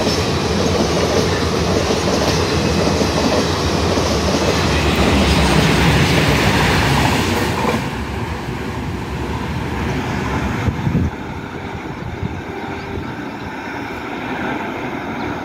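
Train of automobile carrier coaches passing at speed, its wheels running over the track. The sound drops away about eight seconds in as the last coach goes by, and the train fades as it moves off.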